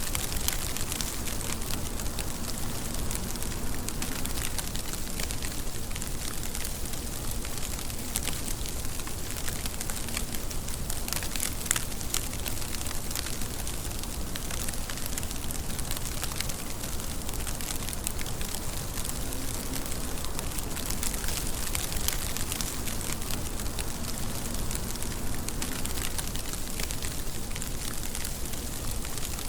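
Steady rainfall: a dense, even hiss of rain with many small, sharp drop taps.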